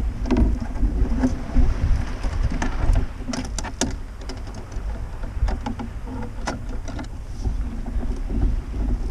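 Kayak on the water: small splashes and drips with scattered sharp knocks and ticks against the hull, several close together about three to four seconds in, over a low wind rumble on the microphone.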